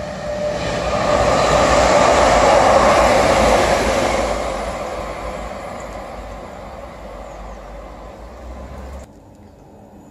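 Class 350 Desiro electric multiple unit passing through the station without stopping: a rush of wheel and air noise swells to a peak about two seconds in, then fades as the train recedes, and cuts off abruptly near the end.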